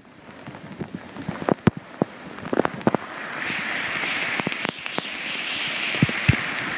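Steady rush of water that swells about halfway through, with scattered sharp clicks and knocks over it.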